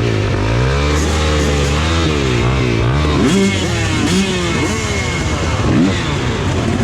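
Dirt bike engines revving up and down, more than one pitch rising and falling at once.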